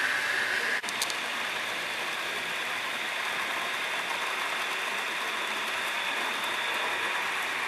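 Model trains running on a layout: a steady whirring hiss of small motors and wheels on track, with a brief dip and click about a second in.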